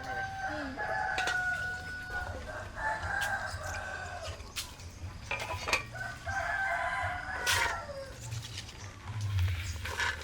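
A rooster crowing: three long crows in a row, with a few sharp clicks in between.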